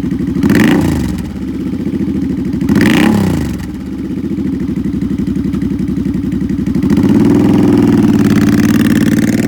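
2013 Suzuki Boulevard M50's 805 cc fuel-injected V-twin through aftermarket Cobra exhaust pipes, idling. The throttle is blipped twice, about half a second and three seconds in, each time rising and dropping back, and from about seven seconds in the revs are raised and held.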